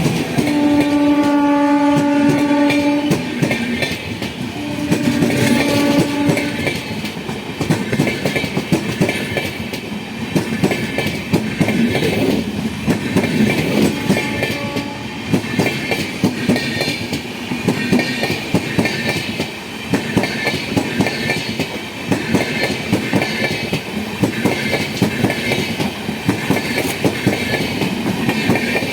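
Locomotive horn sounded twice, a long blast then a shorter one, as an express train runs past, followed by the steady rapid clickety-clack of the coaches' wheels over the rail joints.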